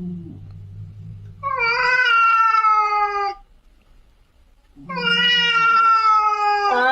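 A cat meowing twice in long, drawn-out calls, each about two seconds and sliding slightly down in pitch. A faint low hum runs under the first two seconds.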